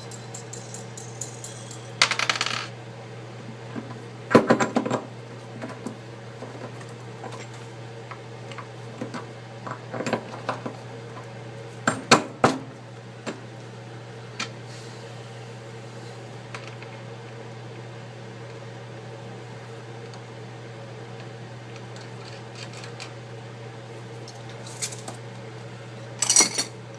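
A few scattered metallic clinks and light taps of a small hand tool against the iPad's aluminium housing as a bent corner is worked back into shape, each with a brief ring, over a steady low hum.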